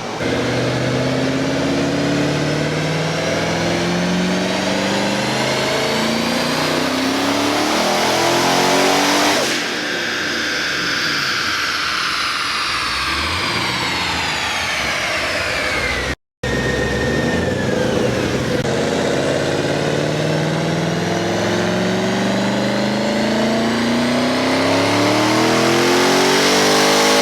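Twin-turbocharged 5th-gen Camaro V8 making full-throttle chassis-dyno pulls. The engine's pitch climbs steadily for about nine seconds, then falls away as it winds down. After a brief break about two-thirds of the way in, it climbs again in a second run that is still rising at the end.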